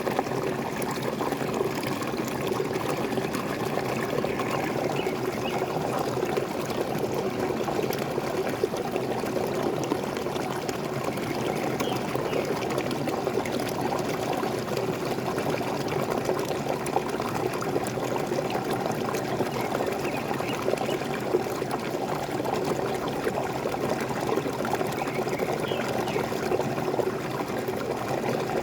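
Small waterfall splashing and pouring steadily, an even rushing of falling water without pause.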